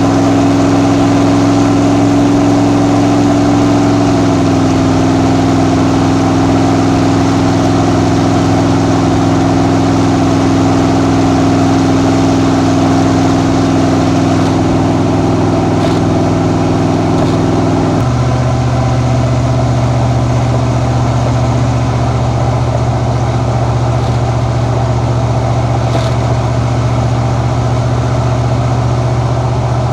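Ford 7.3L Godzilla V8 with a custom exhaust running steadily at highway cruise. The note dips slightly about four seconds in and changes abruptly about eighteen seconds in.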